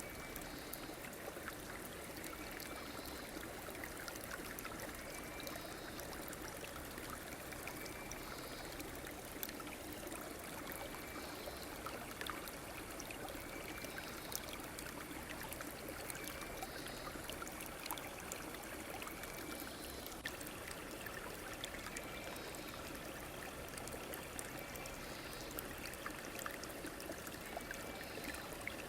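A river stream running steadily, with small splashes, and a faint short chirp repeating about every two to three seconds.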